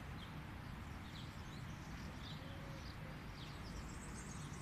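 Faint outdoor ambience with scattered short, high bird chirps over a low steady background.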